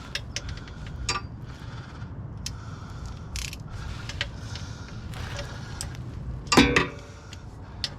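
Scattered small clicks and clinks of tools and parts being handled under a car during a differential oil fill, over a steady low rumble, with one louder, briefly pitched clatter about six and a half seconds in.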